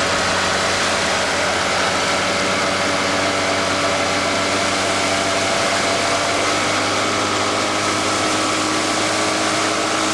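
A motorboat's engine running at a steady speed, a constant hum over the rushing hiss of water and wind.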